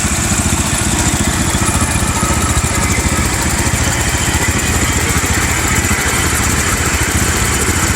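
Small garden tractor engine running steadily at idle, with an even, rapid firing beat that holds the same speed throughout.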